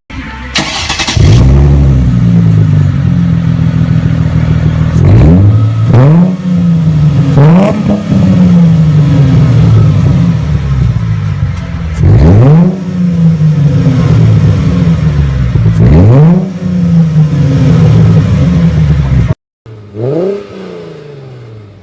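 Mercedes-Benz V6 engine starting about a second in, then revved hard several times, each rev climbing quickly and dropping back to idle. Near the end there is a short cut to another V6 being blipped.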